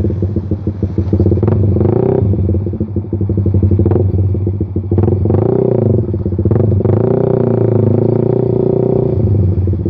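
Suzuki Satria fuel-injected motorcycle running on the road through a Pro Liner aftermarket muffler with the dB killer removed, the exhaust note rising and falling as the throttle is worked.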